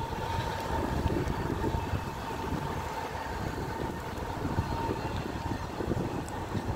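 Freight wagons carrying lorry semi-trailers rolling past on the rails in a steady low rumble. A thin steady whine rides over it for the first few seconds, then fades.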